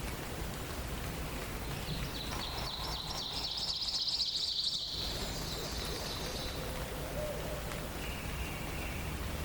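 A songbird's rapid high trill lasting about four seconds, from about two seconds in, then a short steady whistle near the end, over a steady hiss of forest ambience.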